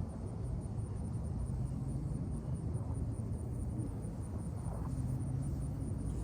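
Steady low rumble outdoors, with insects chirping in a fast, even pulse high above it.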